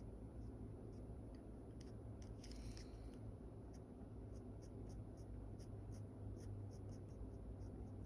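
Faint scratching and ticking of a drawing tool on paper as a portrait is sketched, with one longer scratchy stroke about two and a half seconds in, over a steady low hum.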